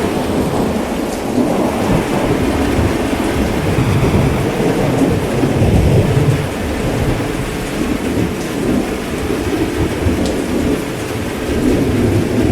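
Heavy rain falling steadily, with low rolling thunder that swells about halfway through and rumbles again near the end.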